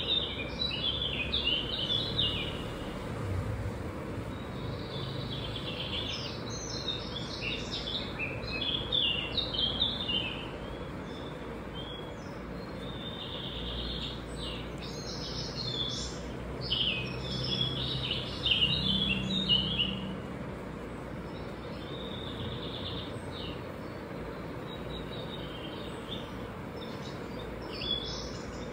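Small birds chirping and twittering in repeated bouts of rapid short notes, with pauses of a few seconds between bouts, over a steady low background hum.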